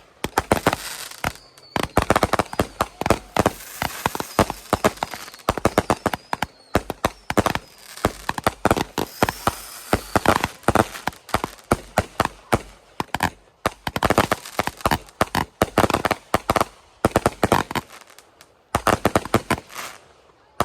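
Fireworks going off in rapid, irregular pops and bangs, many a second, with a few short lulls.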